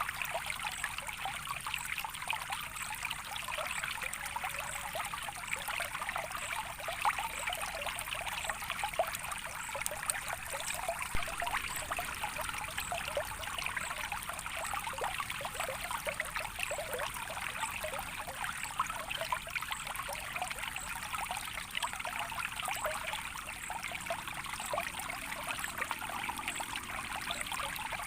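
Soft water trickling and babbling steadily, like a small stream running over stones, with many small splashes and gurgles.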